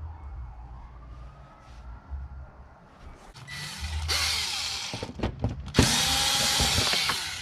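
A handheld power tool run in two bursts, the second, from about six seconds in, louder and more than a second long, with clicks around them.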